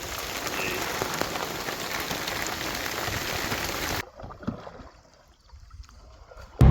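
Steady rain, a dense hiss of many small drop hits, cutting off abruptly about four seconds in to near quiet. A loud, steady low hum starts right at the end.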